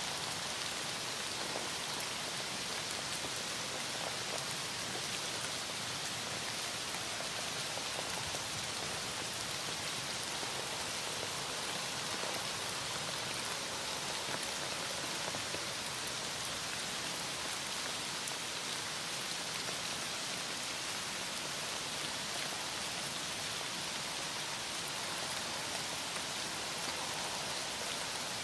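Heavy rain falling steadily, an even hiss of many drops with faint scattered patters.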